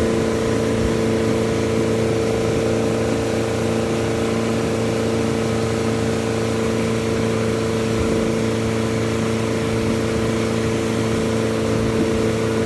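Motorboat engine running at a steady speed, one unchanging hum, with a constant rush of wind and water noise over it.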